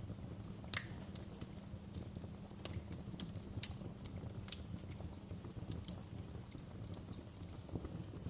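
Wood fire crackling in a fireplace: a steady low rumble of the burning with irregular sharp pops and snaps, the loudest snap a little under a second in.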